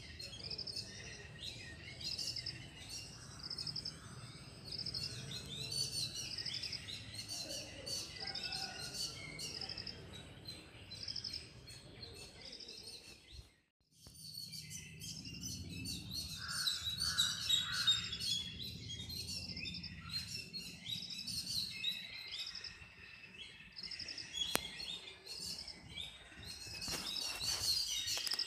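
Small birds chirping over and over in the background, with a low steady rumble underneath; the sound drops out briefly about halfway through.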